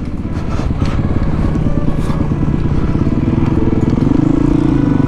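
Honda CRF450 dirt bike's single-cylinder four-stroke engine running on the trail, its pitch rising a little and getting louder past the midpoint as the throttle opens. A few light knocks come in the first couple of seconds.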